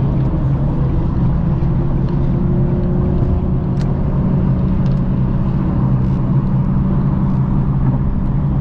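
Car running at steady highway speed: an even, unbroken engine and road hum.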